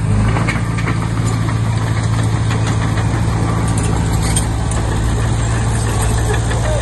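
Komatsu D20P bulldozer's diesel engine running steadily, with scattered light clicks and clanks over it.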